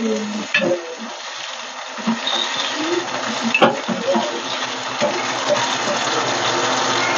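Cashews sizzling steadily as they fry in ghee in a small enamel saucepan on a gas stove. A steel ladle clinks against the pan twice, about half a second in and again after about three and a half seconds.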